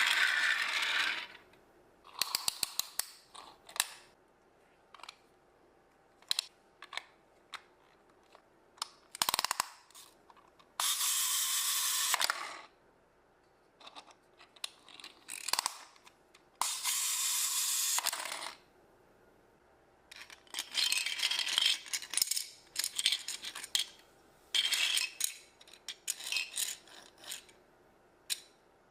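Small plastic building-block pieces being handled, clicking and clattering in scattered bursts, with two longer rustling noises of about a second and a half each near the middle.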